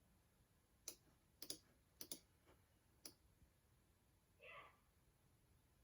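Computer mouse clicking, quiet and sharp: about six clicks in the first three seconds, some in quick pairs.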